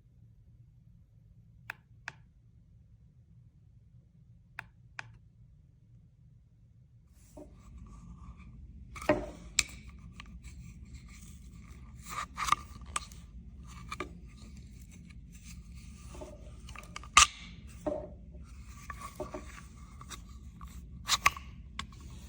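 Clicks and scrapes of things being handled: a few sparse clicks at first, then, from about seven seconds in, frequent irregular clicks and scrapes over a low steady rumble.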